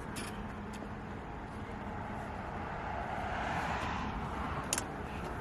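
Steady road traffic noise, swelling a little past the middle, with a single sharp click near the end.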